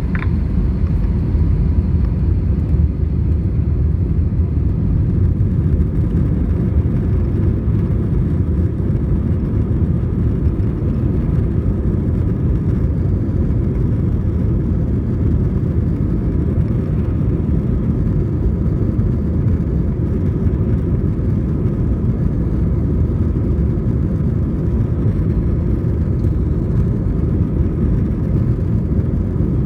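Steady low rumble of an Airbus A320 heard inside the passenger cabin: engines running and noise carried through the airframe, with a few faint steady whining tones above it.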